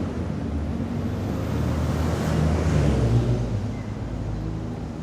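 A motor vehicle passing close by on a city street over a steady traffic hum, its noise swelling to a peak about halfway through and then fading.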